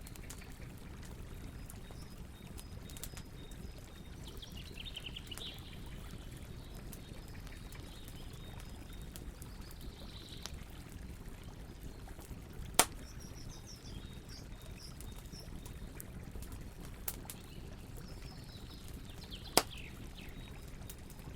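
Campfire crackling over a steady low rumble, with many small snaps and two sharp, loud pops, one about halfway through and one near the end. Birds call twice in short falling chirps, near the start and again near the end.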